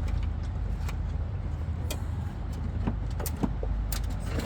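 Scattered light clicks and taps of hands handling plastic parts and zip ties in a car's engine bay, over a steady low rumble.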